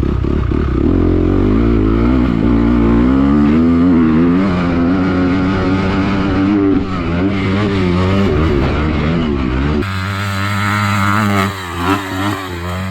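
Honda CRF250R dirt bike's single-cylinder four-stroke engine revving hard, the revs rising and falling through the throttle and gear changes on the run-up to a jump. The sound changes abruptly about ten seconds in.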